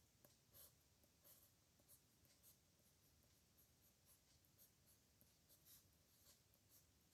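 Faint scratching of a pen on paper in short, irregular strokes, several a second, as characters are written by hand.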